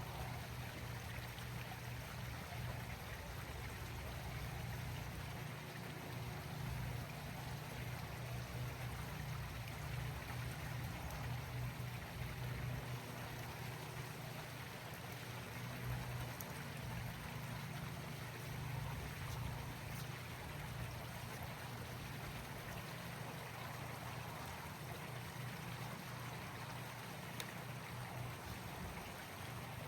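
Swimming pool being vacuumed: a steady low hum from the pool's pump with water running through the system, without a break.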